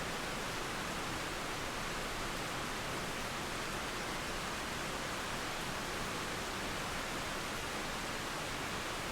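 Steady rain mixed with running water: an even, unchanging hiss with no thunder or birdsong in it.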